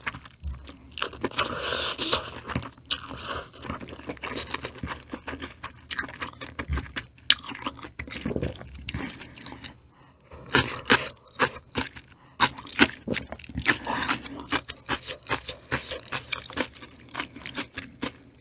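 Close-miked eating: chewing and crunching of food, with many small clicks and scrapes.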